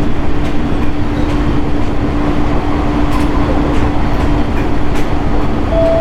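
Onboard running sound of a JR East 701 series electric train at speed: a steady rumble of wheels on rail with a constant motor hum and a few faint clicks. A higher steady tone joins near the end.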